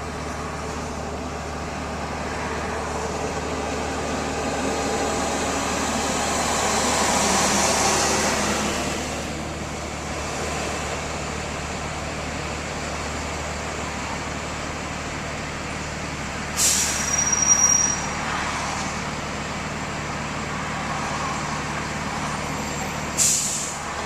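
Truck engine running steadily, heard from inside the cab, with a swell of noise around seven to eight seconds in. Two short, sharp hissing bursts break in, one about sixteen seconds in and one near the end.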